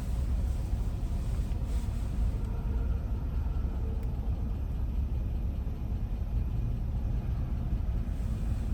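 Steady low rumble inside a car cabin: the car's engine idling.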